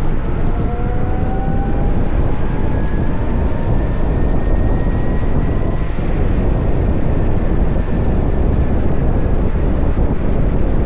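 Wind rushing over the microphone with road rumble as the VMoto Stash electric motorcycle rides along. A faint electric-motor whine rises in pitch as the bike speeds up over the first six seconds, then levels off and fades.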